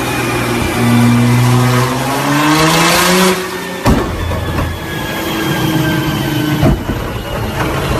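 Performance car engine and exhaust revving: the pitch climbs for about two seconds and then falls away, with a sharp crack just before the four-second mark and another shorter one near the end.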